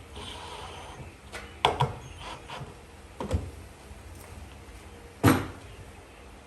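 Pieces of wood being handled in a workshop: a few separate hollow knocks and clunks, a quick pair a little under two seconds in, another past three seconds, and the loudest about five seconds in.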